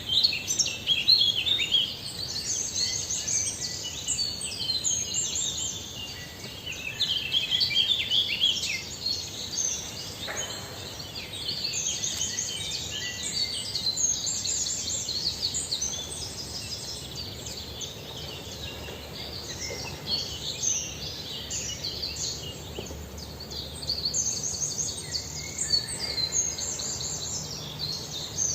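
Several small birds chirping, with short high-pitched calls overlapping in a dense, continuous twittering over a steady background hiss.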